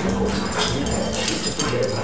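A Rottweiler whimpering, with a television's music in the background and a few sharp clicks.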